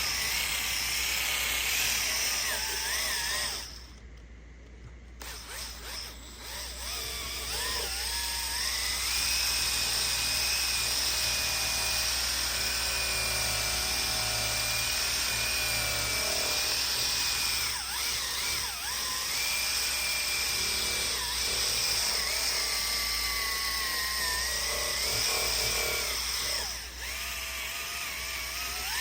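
Electric rotary buffer spinning a wool pad with compound across the paint, its motor whining and wavering in pitch as the load changes. It cuts off about four seconds in, then spins back up with a rising whine and runs on steadily.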